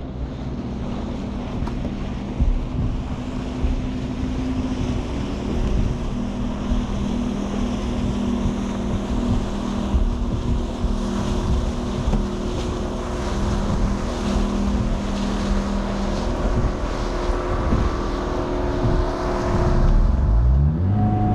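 A 9.8 hp outboard motor running hard at high throttle just after a restart, with wind and water noise over it. It is being held at full throttle to clear a slight flooding after it cut out. Near the end the engine note shifts in pitch.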